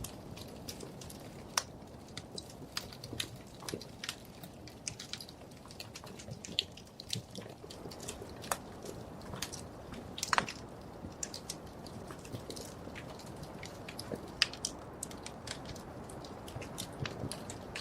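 Wood fire crackling in a fireplace: irregular sharp pops and snaps over a steady low rush of flame, with a few louder pops.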